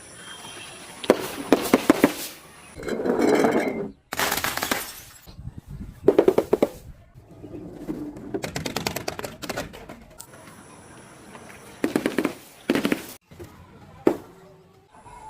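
A series of objects being crushed and broken, in about half a dozen separate bursts of crunching and crackling with some shattering, broken up by short abrupt cuts.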